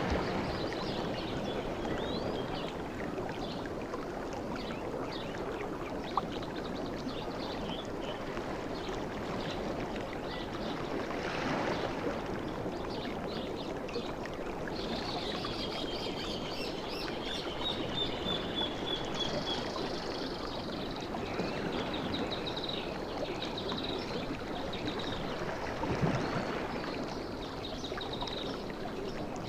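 Sea waves washing onto a beach, a steady rush that swells and falls, with surges near the middle and again near the end. A run of high, thin chirps sounds over it in the middle.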